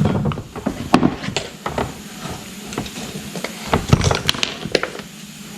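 Irregular light clicks and knocks of tools and metal parts being handled while an old outboard motor is taken apart.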